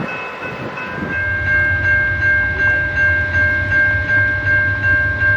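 Locomotive horn sounding one long held blast, its chord starting strong about a second in, over the low rumble of a train passing.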